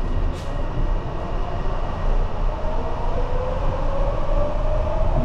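Kobe Port Liner automated elevated train running, a steady rumble with a motor whine that rises in pitch from about halfway through as the train gathers speed.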